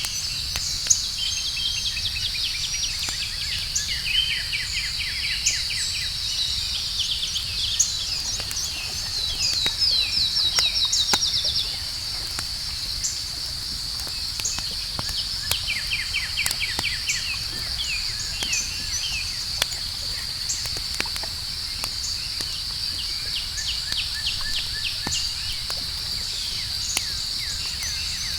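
Campfire crackling with scattered sharp pops over a steady high trill of night insects, with repeated runs of rapid chirping that grow loudest about ten seconds in.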